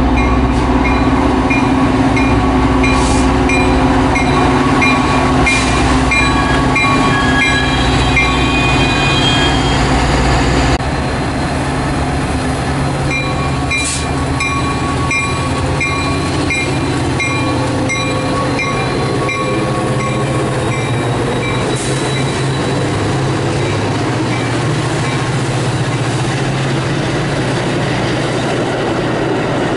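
Diesel-hauled Metra commuter train arriving at the station, its locomotive engine running and the cars rolling on the rails. A high ding repeats about one and a half times a second, and the sound gets suddenly quieter about eleven seconds in.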